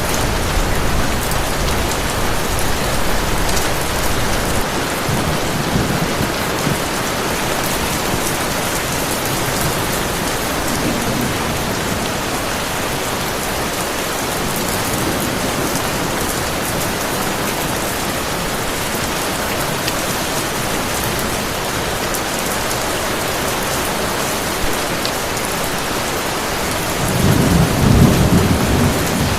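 Heavy rain falling steadily, with a low roll of thunder near the end.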